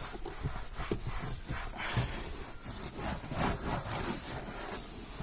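Microfiber cloth wiping sanitizing foam over car interior trim: irregular rubbing strokes, one after another.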